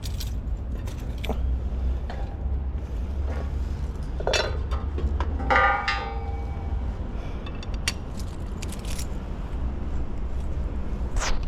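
Light metallic clicks and jangles over a steady low rumble, with a short falling squeak about halfway through.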